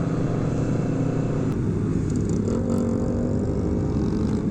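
Several motorcycle engines running together at a steady cruise; from about halfway through, one engine's pitch climbs gently as it speeds up.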